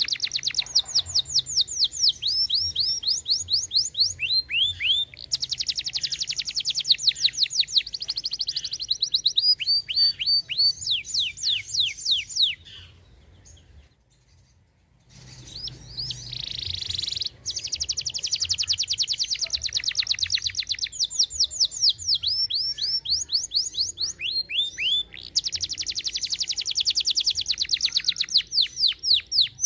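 Domestic canary singing its song: long, very rapid trills and rolling runs of repeated sweeping notes, high-pitched. The song stops for about three seconds just before halfway, then starts again.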